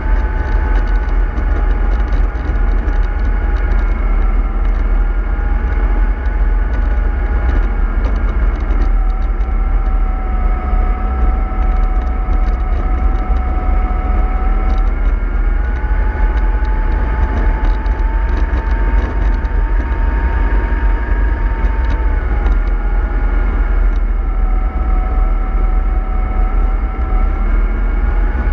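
Bus motor and drivetrain running under way, a heavy low rumble with a gear whine that slowly rises and falls in pitch as the speed changes.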